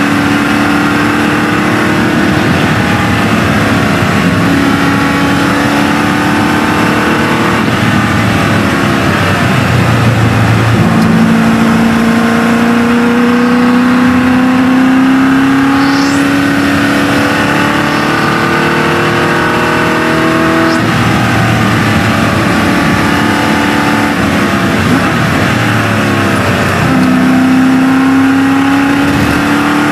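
GT40 replica's V8 engine at full throttle, heard from inside the cockpit: its pitch climbs in long pulls and drops away sharply several times between them, with one long steady climb through the middle.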